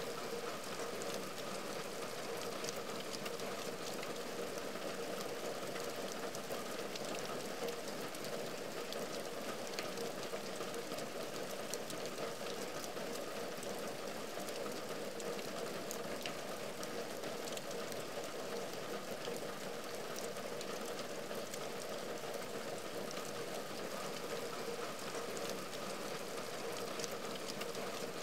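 Rain falling on a window pane and its wooden ledge: a steady, even hiss flecked with many small ticks of individual drops.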